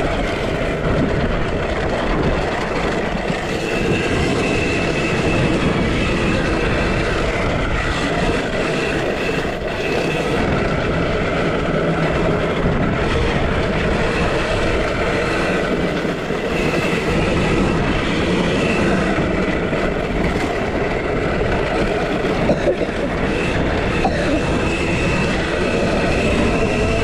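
2023 KTM SX-E5 electric mini motocross bike under way: a high motor whine that comes and goes over a steady rush of wind and tyre noise.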